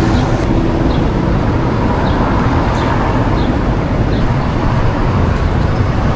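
Steady rumble of city street traffic and engines.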